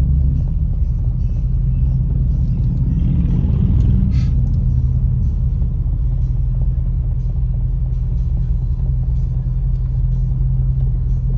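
Steady low rumble of a car's engine and road noise inside the cabin while crawling in traffic, with a brief swell of louder noise about three to four seconds in.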